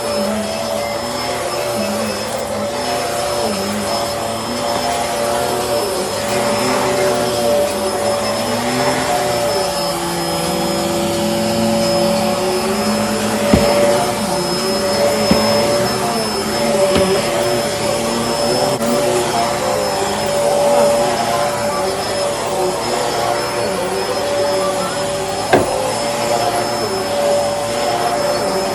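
Bissell Helix upright vacuum cleaner running continuously, its motor holding a steady whine over a broad rush of air, with a few brief clicks along the way.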